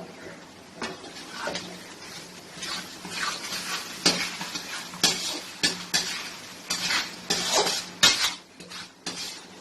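Spoon stirring and scraping a thick, nearly dry chicken masala in a pan: irregular scrapes and clinks against the metal, some sharp knocks about four, five and eight seconds in.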